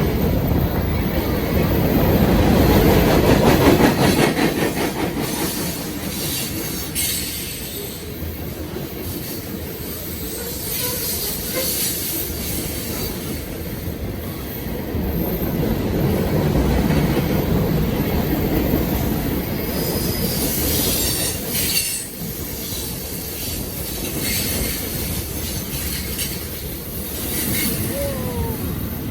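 Long freight train's cars rolling past on the rails, a continuous clattering rumble that swells and eases, with some wheel squeal.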